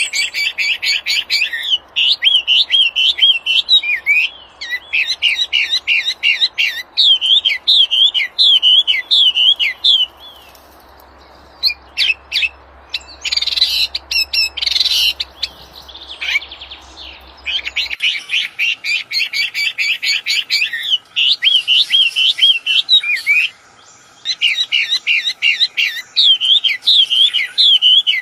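A wambi songbird singing vigorously: repeated phrases of rapid chirps followed by wavering, whistled notes, with a short pause near the middle and another late on.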